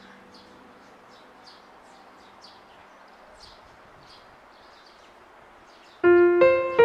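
A bird chirping faintly and repeatedly, short high calls two or three times a second over quiet outdoor background noise. About six seconds in, piano music starts, much louder.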